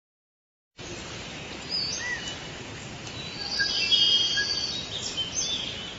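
Outdoor ambience with several birds chirping and whistling over a steady background hiss, starting abruptly about a second in.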